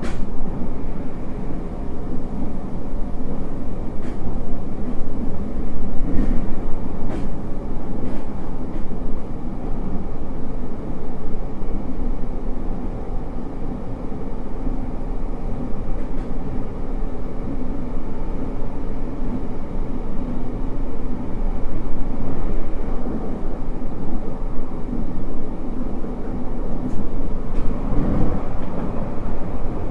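Running sound heard inside a JR Hokkaido 733 series 1000 electric multiple unit at speed: a steady rumble of wheels on rail, with a few sharp clicks scattered through it.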